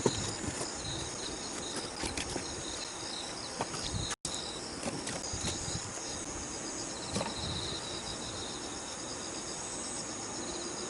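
Crickets chirping steadily in high, pulsing trills, with a few faint knocks in the background.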